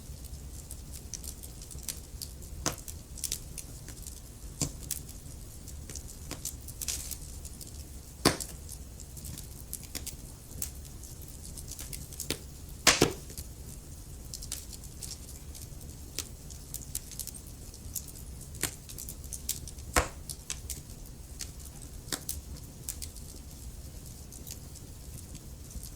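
Wood fire crackling in a fireplace: irregular small pops and snaps, a few sharper and louder than the rest, over a low steady rumble.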